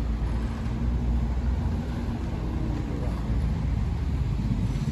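Motor vehicle engine running steadily in street traffic: a low, even rumble.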